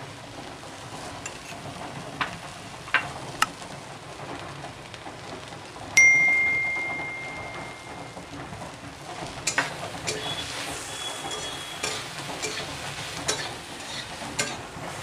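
Soya chunks sizzling in oil in a metal kadai, with scattered light clicks and taps as turmeric and salt go in. About six seconds in, a metal utensil strikes and rings with a clear ding that fades over about two seconds. More clicks and a fainter ring follow as stirring begins near the end.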